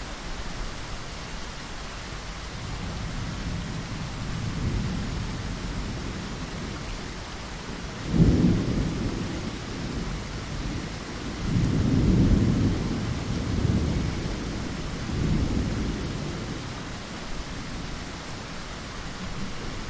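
Steady rain hissing, with thunder rumbling over it: a sudden loud clap about eight seconds in, then several rolling rumbles that die away.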